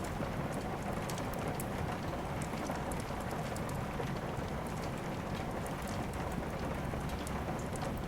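Steady rain falling, an even hiss with scattered faint, sharp high clicks through it.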